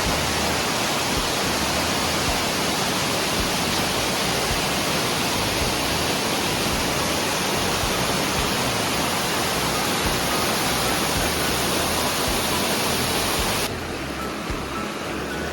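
Steady rush of flowing creek water, cutting abruptly to a quieter rush near the end.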